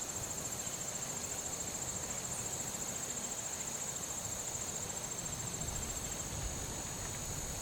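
Insects trilling in a steady, high-pitched pulsing chorus, typical of crickets.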